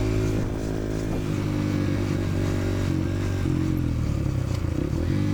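Dirt bike engine running at fairly steady revs, its pitch dipping and picking up a little in the second half.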